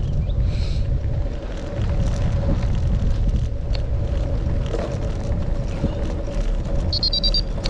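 Headwind buffeting the microphone of a moving bicycle as a low, steady rumble, with a faint steady hum underneath from about a second in and a brief high chirp near the end.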